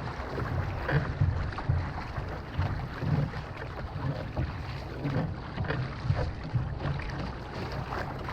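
Wind buffeting the microphone on an outrigger canoe, with irregular splashes of paddles in the water.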